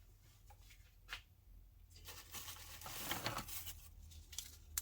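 A few faint small clicks, then a brief crinkling, rustling noise of handling about halfway through.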